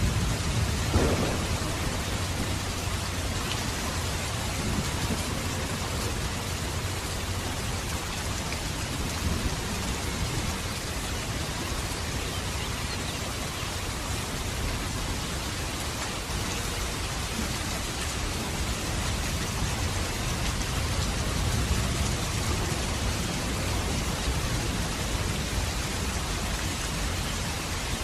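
Steady heavy rain falling as an even hiss, with a low thunder rumble that dies away in the first couple of seconds.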